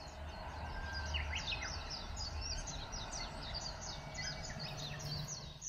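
Small birds chirping in quick, repeated short notes, over a steady low background hum.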